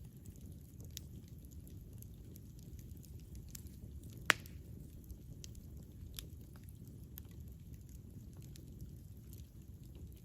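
Campfire burning: a steady low rumble of flames with scattered crackles and pops, and one sharp, much louder pop a little over four seconds in.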